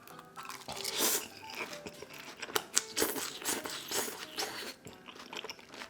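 Close-up crunching and chewing of crispy fried beef large intestine (daechang): a string of crisp, crackly bites and chews.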